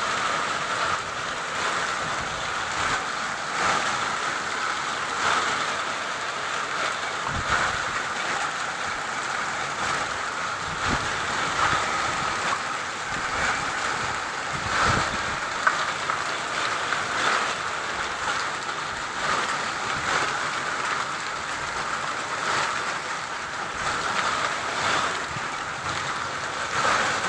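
Heavy rain mixed with hail pelting down: a steady rush of rain with frequent sharp hailstone impacts throughout, one louder hit about two-thirds of the way in.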